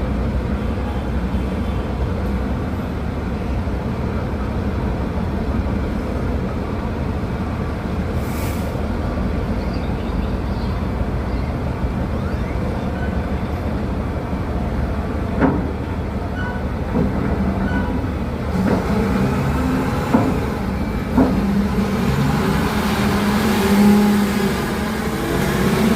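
Heavy dump truck diesel engines running steadily, a low rumble. In the last several seconds the engine note shifts and there are a few sharp clanks.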